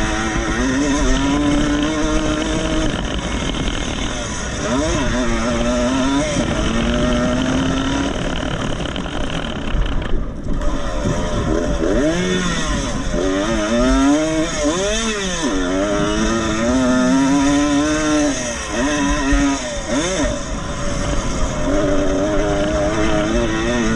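Vintage motocross motorcycles racing, their engines revving up and falling off again and again through the gears. Several bikes are heard at once, overlapping as they pass.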